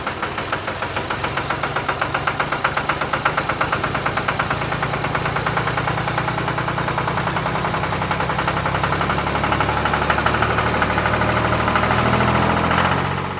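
A tractor engine running with a fast, even chugging pulse, its pitch climbing a little near the end.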